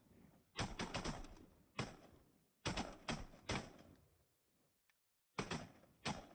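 A series of sharp knocks and clicks, some coming two or three in quick succession, with short gaps between them.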